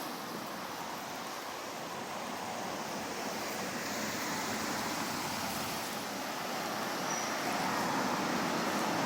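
Steady outdoor street noise, a wash of passing traffic, growing slowly louder toward the end.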